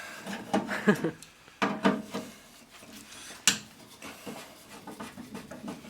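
Handling noises from work on a truck door: a few sharp clicks and knocks, about 1.6 and 3.5 seconds in, with rubbing and scraping of parts between them.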